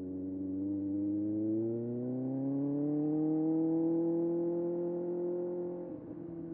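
Kawasaki ZX6R's inline-four engine pulling under throttle, its pitch rising over the first few seconds and then holding steady. Near the end the sound briefly breaks and comes back lower, as on an upshift.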